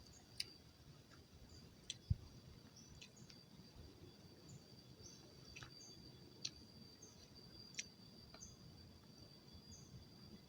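Faint forest ambience: a steady high-pitched insect drone with scattered short bird chirps, and a few sharp clicks.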